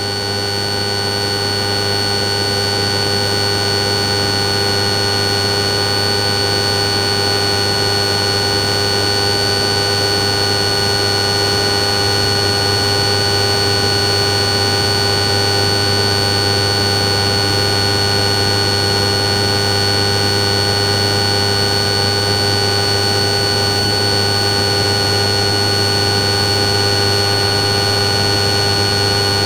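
Steady buzzing drone with a thin high whine on the patrol aircraft's onboard audio feed, unchanging throughout.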